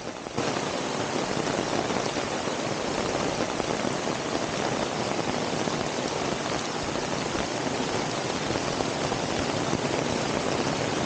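Heavy rain falling steadily as a dense hiss, which steps up in level about half a second in and stays steady after that.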